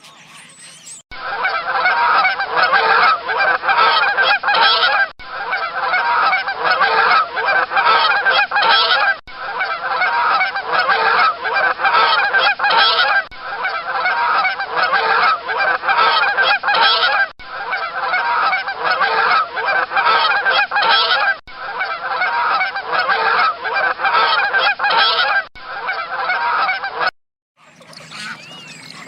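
Geese honking, many loud, overlapping calls. The same four-second stretch of honking repeats over and over, with a brief break between repeats.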